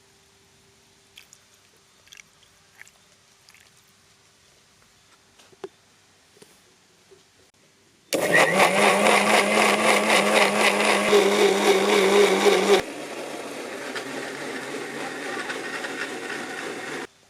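Electric blender whirring as it blends milk, sugar and chocolates for a milkshake. It starts suddenly about halfway through and runs loud for about five seconds, then drops to a quieter run for about four seconds and cuts off. Before it there are only a few faint taps and clicks.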